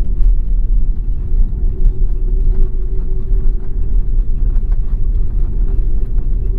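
Cabin noise inside an Airbus A330 airliner: a loud, steady deep rumble from the engines and airframe, with a steady hum and frequent small rattles and clicks of the cabin fittings.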